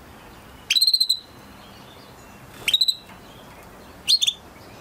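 A canary singing three short phrases about one and a half seconds apart, each a quick rising note running into a brief rapid trill.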